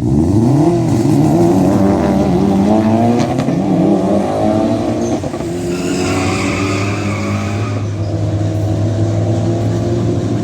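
Rotary-engined car revving, its pitch sweeping up and down several times over the first few seconds. It then runs more steadily, with a burst of higher hiss for about two seconds in the middle.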